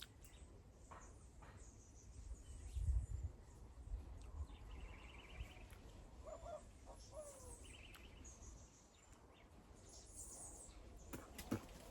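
Faint outdoor ambience with birds chirping: short trilled calls and a few gliding notes. There is a brief low rumble about three seconds in and a couple of sharp clicks near the end.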